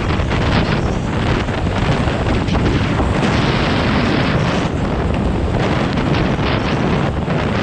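Wind buffeting the microphone with a steady low rumble, over the hiss of rain and road noise.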